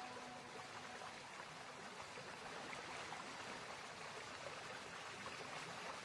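Mountain valley stream flowing: a steady, fairly faint rush of running water.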